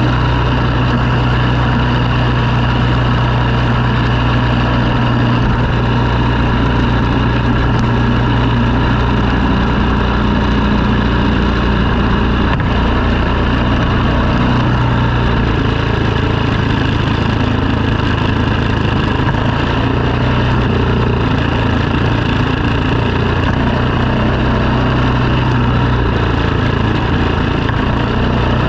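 Engine of snow-clearing equipment running steadily, its low note shifting slightly about halfway through.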